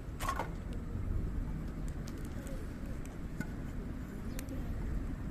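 Hardwood campfire burning with a steady low rumble, crackling and popping: one sharp pop just after the start and a few lighter ticks later.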